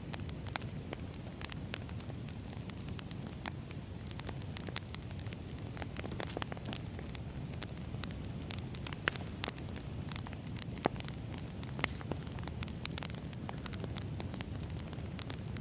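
Wood fire burning, with a steady low rumble and frequent sharp, irregular crackles and pops of firewood.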